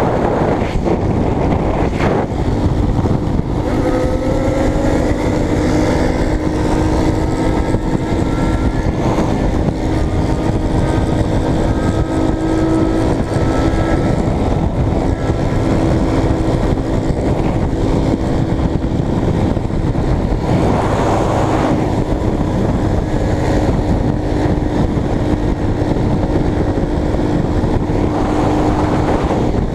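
Motorcycle riding at a steady cruise: wind rushing over the microphone, with the engine drone holding a steady pitch and rising slightly around four seconds in.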